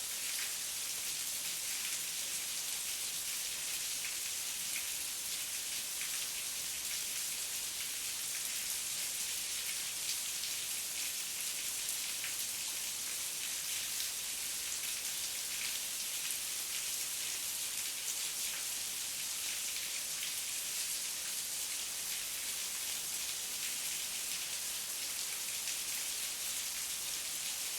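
Heavy rain falling steadily, a dense even hiss of drops with fine pattering ticks.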